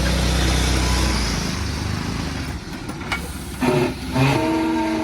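Heavy diesel engine of a JCB 3DX backhoe loader running loud under throttle for the first second and a half, then easing back. A sharp click comes about three seconds in, followed by a brief pitched sound near the end.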